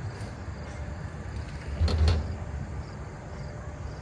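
A BMX bike rolling on concrete with a steady low rumble, then hitting down with one heavy thump about two seconds in during a trick attempt.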